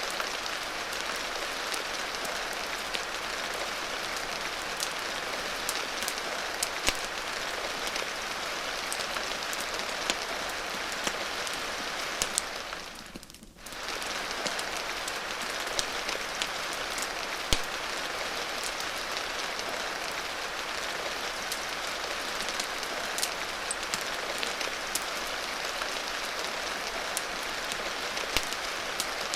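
Steady rain hiss mixed with the scattered sharp crackles and pops of a wood fire. About halfway through the sound fades down almost to nothing and comes straight back, like a seam in a looped recording.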